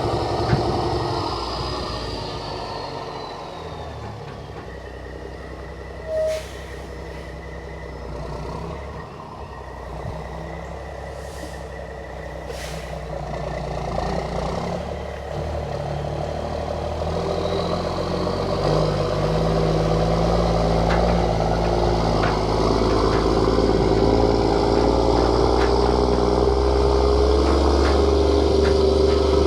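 Mack semi truck's diesel engine running, with a few short air hisses early on. The engine grows steadily louder through the second half as the truck picks up and pulls.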